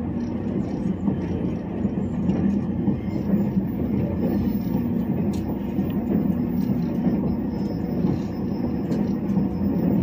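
Steady rumble of a moving Azusa limited express train, heard from inside the passenger car as it runs along the rails, with a few faint clicks over the hum.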